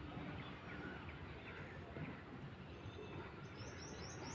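Small birds chirping faintly over steady outdoor background noise; near the end a quick run of high, evenly repeated chirps starts up, about five a second.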